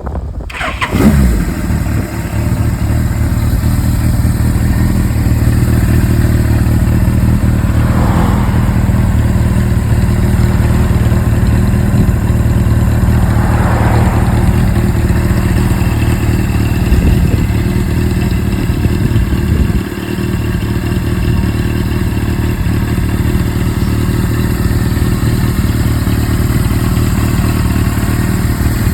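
Suzuki GS-series air-cooled inline-four motorcycle engine starting about a second in, then idling steadily. It runs without the abnormal noise, its tachometer and speedometer cables freshly cleaned and oiled.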